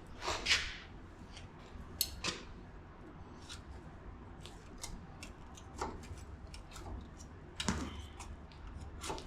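A knife blade scraping packed mud out of a truck's front suspension, metal on metal: irregular short scrapes and clicks, with louder strokes near the start, about two seconds in, and near the end.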